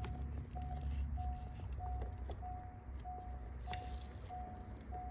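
C5 Corvette's warning chime beeping steadily at one pitch, about one and a half beeps a second, over a low steady hum.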